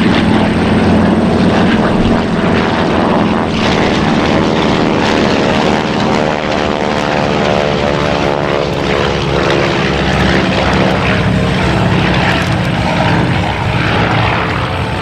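B-25 Mitchell bomber with a T-6 Texan on its wingtip flying past. Their radial engines and propellers make a loud, steady drone whose pitch falls slowly as the aircraft go by.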